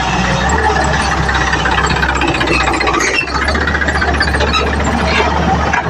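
Heavy construction machinery with a diesel engine running steadily, with rattling and clanking of metal parts over a low engine hum.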